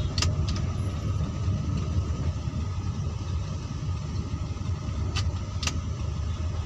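Car engine running with a steady low rumble. A few sharp clicks come through, one just after the start and two close together near the end.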